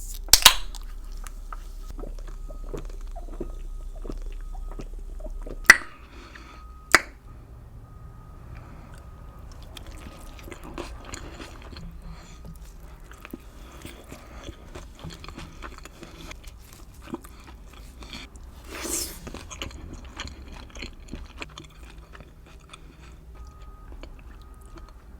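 A person chewing chorizo close to the microphone, with continual small wet, crackly mouth sounds. Sharp bites or clicks stand out about half a second, six and seven seconds in, and a louder burst comes about nineteen seconds in.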